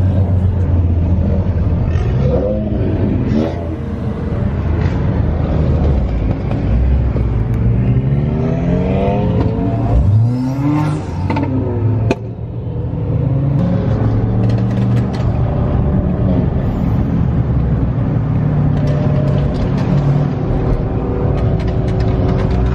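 Car engines running at a street meet, with a steady low drone. In the middle, an engine revs up and down several times in rising and falling sweeps. There is an abrupt break about twelve seconds in, after which the engine sound settles back to a steadier drone.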